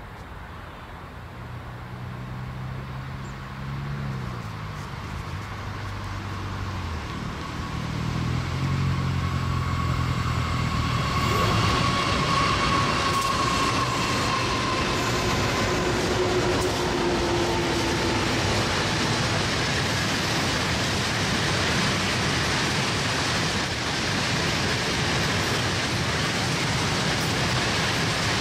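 A diesel-hauled freight train approaching and passing. The locomotives' engines grow steadily louder over the first several seconds. After the locomotives go by, the sound becomes the steady rolling noise of flat wagons loaded with steel coils.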